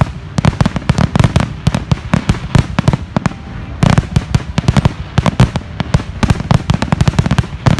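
Fireworks going off in a rapid, unbroken string of loud bangs and crackles, many reports each second.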